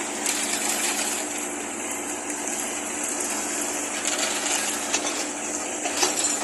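Fresh concrete being poured and worked by hand, a steady gritty scraping and sliding, with a few sharp clicks about six seconds in over a low steady machine hum.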